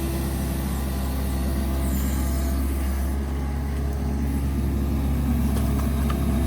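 Kubota tractor's diesel engine running steadily while the backhoe digs.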